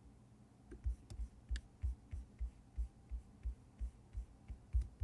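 A steady run of soft, low thumps, about three a second, starting about a second in, with a few faint clicks over them, typical of a computer mouse being clicked.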